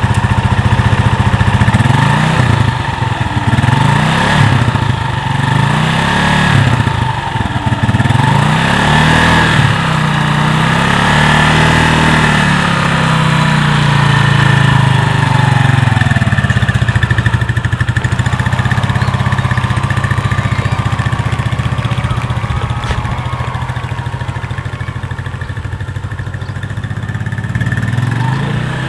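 Motorcycle engine of a motorcycle-and-sidecar tricycle pulling away in first gear, its pitch rising and falling repeatedly as the throttle is worked unevenly, somewhat fainter in the second half as it moves off.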